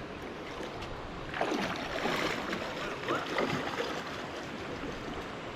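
Water splashing and sloshing close to a waterproof camera held by a swimmer, over the steady rush of the creek; the splashing is loudest from about a second and a half in to about four seconds in.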